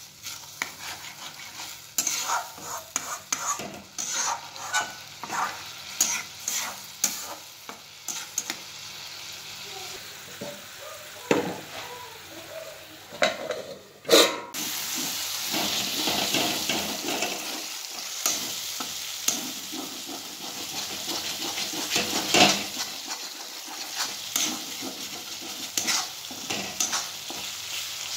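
Onion-tomato curry masala sizzling in oil in a steel kadai while a metal slotted spatula stirs and scrapes against the pan, with many quick clicks. About halfway through there is one loud metal clank as a steel lid is handled. After that the sizzle grows steadier, with more spatula scrapes.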